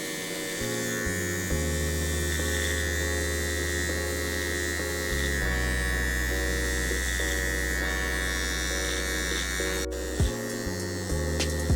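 Electric hair clipper buzzing steadily through a haircut, over background music with a stepping bass line.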